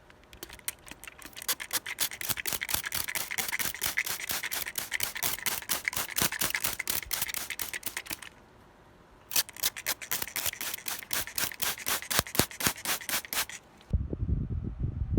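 A rapid, even run of scratchy strokes in two spells, with a pause of about a second between them. Near the end it gives way to a low rumble.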